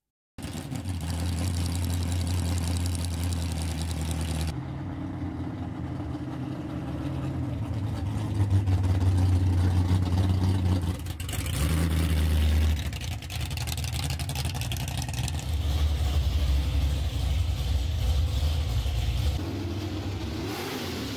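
Vintage Dodge drag car's big V8 engine running, mostly at a steady idle. The sound changes abruptly several times where separate recordings are cut together.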